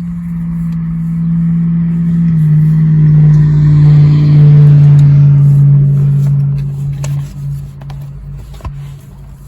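A motor vehicle passing close by: its engine hum swells to a peak about four to five seconds in, dropping slightly in pitch on the way, then fades away.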